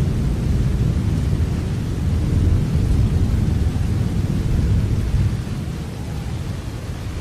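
Steady rain with a low rolling rumble of thunder, which swells in the middle and eases after about five seconds.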